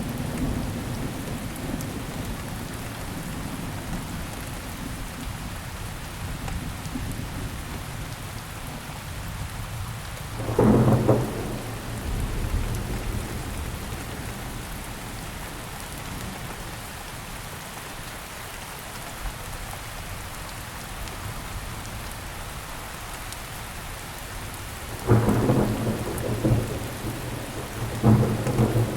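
Steady rain falling on surfaces, with three loud, low booms: one about a third of the way in and two close together near the end.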